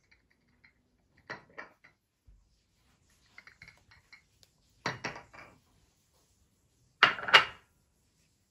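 Kitchenware being handled: dishes and cutlery knocking and clinking in a few short clatters, the loudest a double knock near the end.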